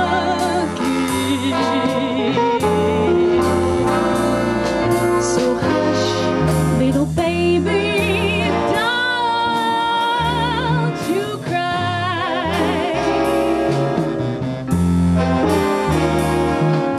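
Swing band music with a woman singing, her held notes carrying a wide vibrato over a stepping bass line and drums.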